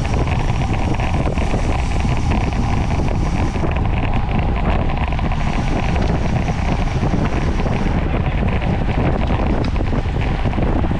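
Steady wind noise buffeting the microphone of a camera moving at speed with a racing bicycle.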